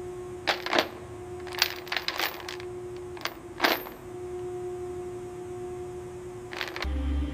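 Sharp metallic clinks and taps of tools against metal parts, about seven in the first four seconds, over a steady hum with one constant tone. A louder, deeper hum comes in near the end.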